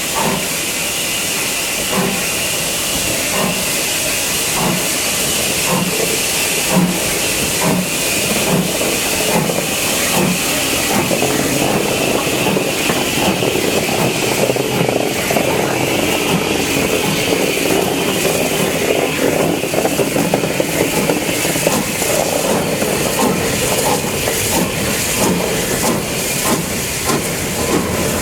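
BR Standard Class 2 steam locomotive working, with a steady hiss of steam and regular exhaust beats that are clearest in the first half and merge into a denser rushing sound later on.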